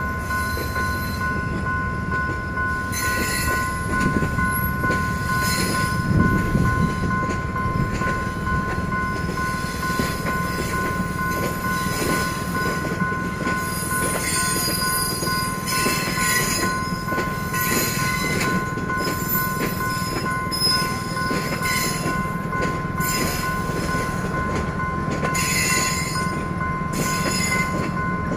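Level-crossing warning alarm sounding its steady two-tone 'ting tong' while a train rolls past with a low rumble, wheel clatter and intermittent high wheel squeals.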